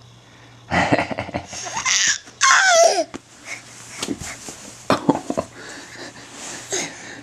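A young child's voice: excited squeals, wordless babbling and laughter, with one high squeal gliding down in pitch a few seconds in.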